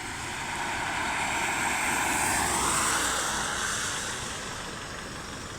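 A vehicle passing by on a rain-wet road: a rushing noise that swells to a peak about two to three seconds in, then fades away.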